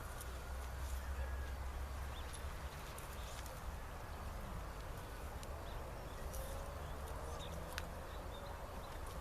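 Outdoor rural ambience: a steady low rumble with faint distant bird calls and scattered small clicks.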